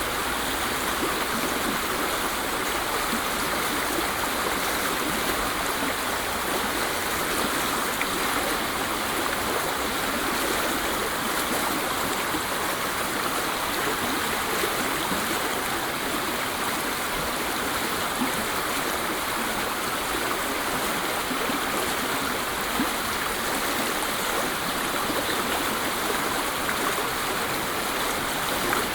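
Waterfall: water pouring and splashing steadily, an even rushing sound that doesn't change.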